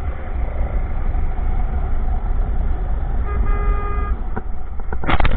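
Motorcycle riding in traffic with a steady low rumble of engine and wind on the mic; about three seconds in a vehicle horn sounds once, a single steady note lasting under a second. A few loud thumps near the end.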